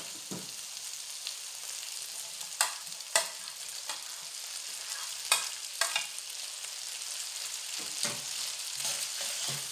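Noodles, chicken and vegetables sizzling steadily in a hot pan as sliced bell peppers and spring onions are tipped in, with several sharp clacks against the pan between about two and a half and six seconds in.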